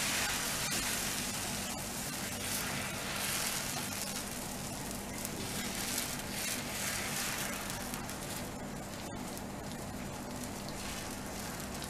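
Paratha batter sizzling steadily on a hot tawa as it is spread with water, the sizzle easing a little over the stretch.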